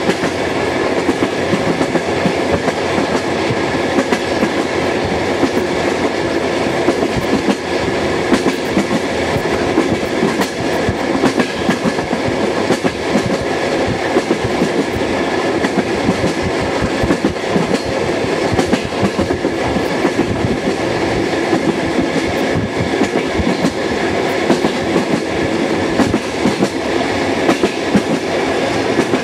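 Suburban passenger train running at speed, heard from inside the carriage: a steady rumble of wheels on the rails with a constant clatter of small clicks.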